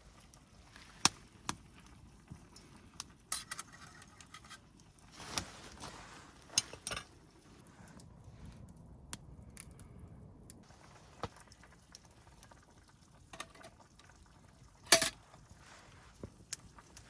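Scattered clinks, taps and knocks of camp cookware and utensils being handled, with the loudest knock about fifteen seconds in.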